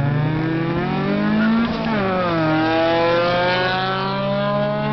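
Honda Civic engines at full throttle in a drag race, among them an 82 Civic's swapped-in VTEC engine: the revs climb, drop at an upshift about two seconds in, then climb steadily again.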